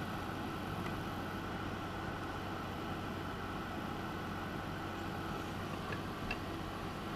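Steady hum and hiss of background machinery, with a couple of faint light clicks about six seconds in.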